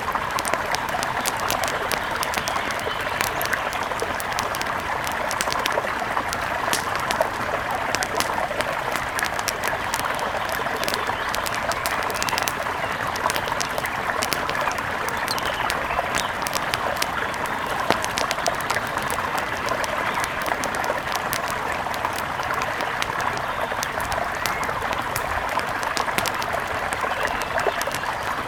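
Wood fire crackling, with many small sharp pops and snaps scattered over a steady rush of flowing water.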